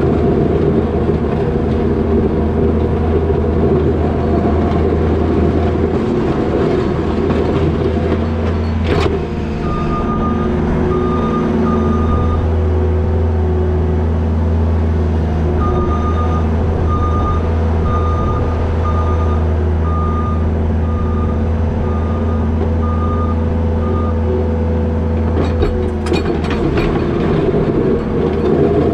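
New Holland L220 skid steer's diesel engine running steadily, with its backup alarm beeping in two spells as the machine reverses while plowing snow. There is a sharp knock about nine seconds in and a few clicks near the end.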